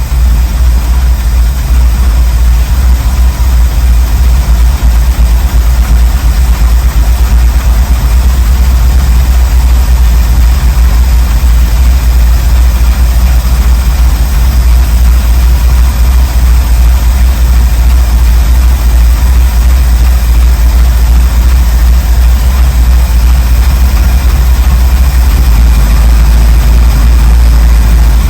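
1979 Ford Bronco's 351M V8 idling steadily.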